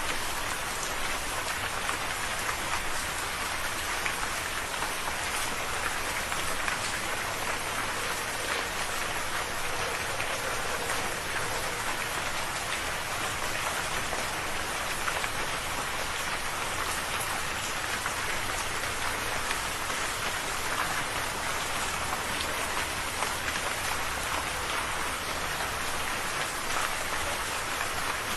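Steady rain falling, a continuous hiss full of small drop ticks, with no rise or fall.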